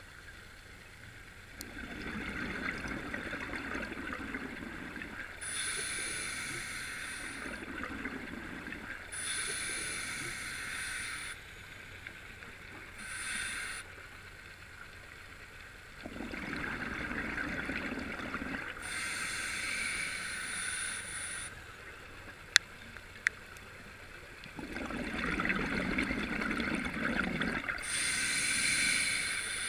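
Scuba diver breathing through a regulator: hissing inhalations alternate with gurgling exhaled bubbles, about five breaths at a slow, even pace. Two sharp clicks come close together about two-thirds of the way through.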